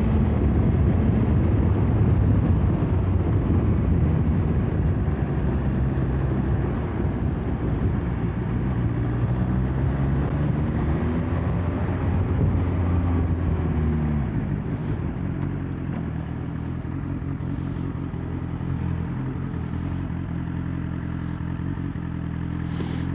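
BMW S1000XR inline-four motorcycle engine running under way, its pitch shifting up and down. About fourteen seconds in the throttle closes and the engine settles to a lower, steadier note.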